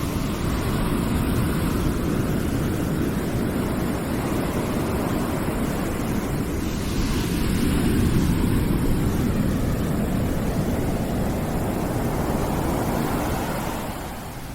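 Steady deep rushing noise that swells slowly and drops off near the end.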